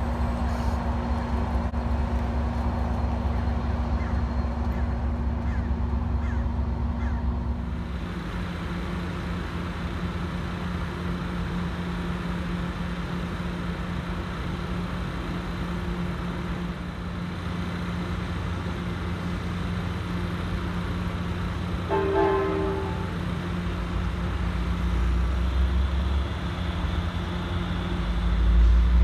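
Diesel passenger-train locomotives idling with a steady low hum; the hum changes about eight seconds in, when an Amtrak Pacific Surfliner standing at the platform takes over. Later on a short horn toot sounds once, and near the end the engine grows louder.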